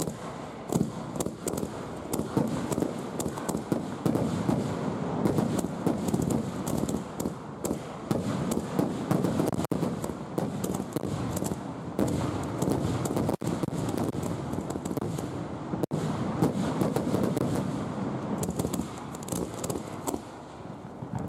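Aerial fireworks going off in a rapid, nearly continuous barrage: mortar launches and shell bursts overlapping with crackle, heard close to the launch site.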